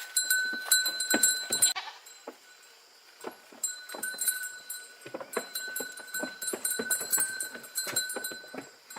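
Goats moving about, with scattered knocks and clatters and an occasional bleat. It goes quieter for a second or so about two seconds in.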